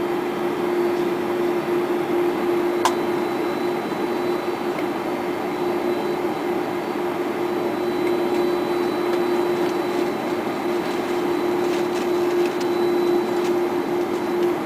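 Steady cabin noise inside a Boeing 747-400 taxiing after landing: an even rush of engine and air-conditioning noise with a steady hum under it. A single sharp click sounds about three seconds in.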